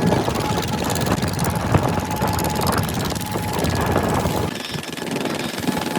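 Boat engine running steadily under loud wind and water noise; the low rumble drops away briefly about four and a half seconds in.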